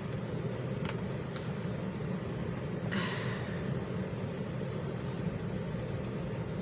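Steady low hum of room noise, with a couple of faint clicks about a second in and a short rustle about three seconds in.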